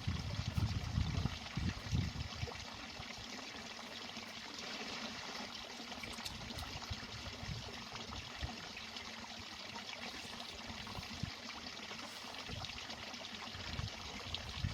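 Steady sound of running, trickling water, with a few low bumps in the first two seconds.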